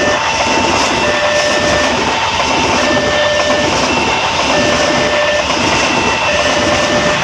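Passenger train coaches rushing past close by, with steady loud wheel-on-rail noise. A steady two-note tone alternates between its two pitches about once a second behind it.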